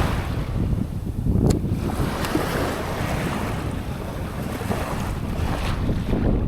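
Surf breaking and washing up a sandy beach in repeated swells, with wind buffeting the microphone as a steady low rumble. A single sharp click about a second and a half in.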